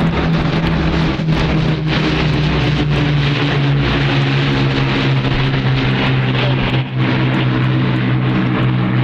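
Piston engines of a vintage Avro Lancaster bomber with Spitfire and Hurricane fighters flying past: a loud, steady propeller-engine drone.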